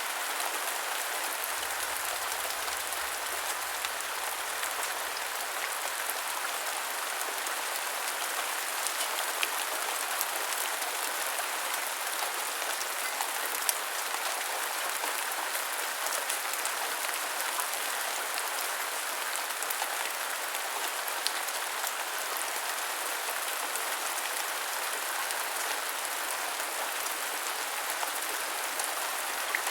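Heavy rain falling steadily, a dense even hiss with scattered individual drops ticking sharply now and then.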